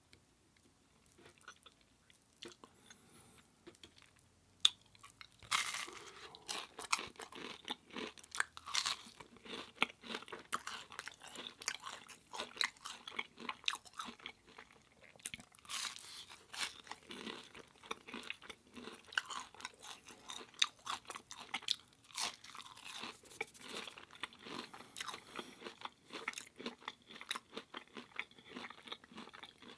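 Close-miked chewing of a crisp fried hash brown: dense, irregular crunches begin about five seconds in after a quiet start.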